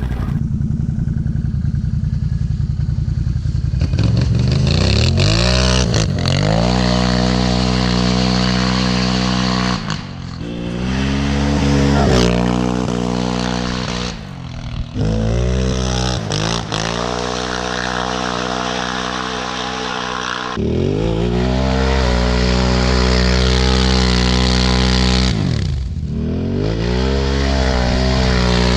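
Can-Am Outlander 1000 ATV's V-twin engine through an aftermarket RJWC single exhaust, opened up again and again. Each time the revs climb quickly and then hold at one steady pitch for several seconds before dropping off as the throttle closes.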